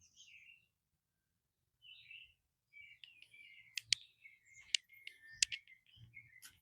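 Faint birds chirping, with three sharp clicks in the second half.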